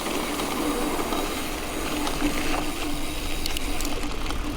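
Mountain bike rolling over a dirt road: steady tyre-on-gravel noise with a low hum, and a few light clicks from the bike near the end.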